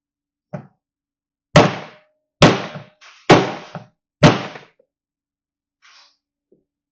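Sheet-metal body panel of a Chevy truck being tapped to work out a small dent: one light knock, then four firm taps a little under a second apart, the panel ringing faintly after some of them.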